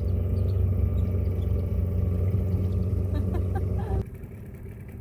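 A tour boat's motor running steadily with a deep hum. About four seconds in it is throttled back or cut, and the sound drops suddenly to a quieter low rumble.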